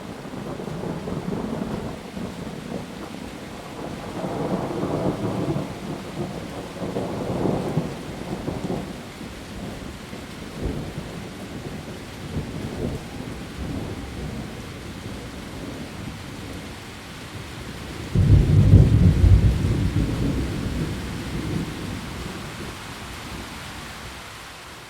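Steady heavy rain with rolling thunder: a grumbling swell a few seconds in, then a sudden loud low crack and rumble about two-thirds of the way through that slowly fades.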